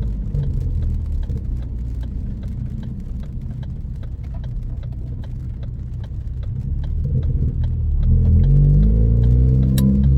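Turbocharged four-cylinder of a 2014 Ford Focus ST with a high-flow catted downpipe and straight 2.5-inch exhaust. The throttle comes off at the start and the engine runs quieter with a rough rumble for several seconds, then it pulls again with the revs climbing near the end.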